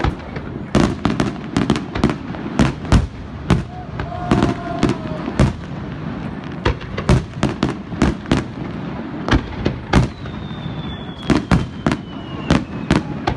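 Aerial fireworks shells bursting overhead in quick, irregular succession: many sharp bangs, sometimes several a second. From about ten seconds in a thin whistle slowly falls in pitch.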